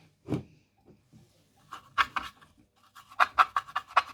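Quick rubbing strokes of a cloth on a clock part being polished, in a fast run near the end. There is a single knock about a third of a second in.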